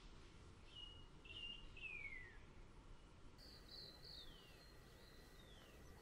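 Faint bird calls: a few high whistled notes, several sliding steeply downward, in two short groups over a quiet background hiss.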